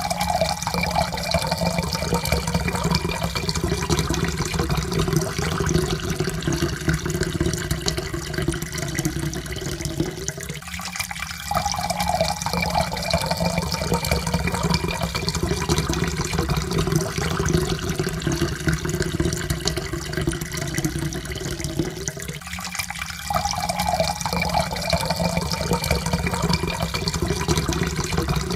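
Water poured steadily into a cup, its ringing pitch rising slowly as the cup fills. The pour breaks off and starts again from empty about every eleven to twelve seconds, twice.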